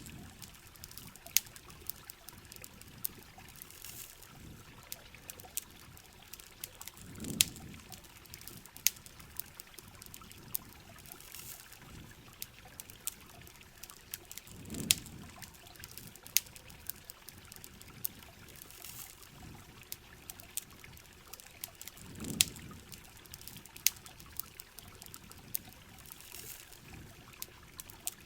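Heavy rain falling steadily while a campfire crackles with sharp pops. A low whooshing swell comes about every seven and a half seconds.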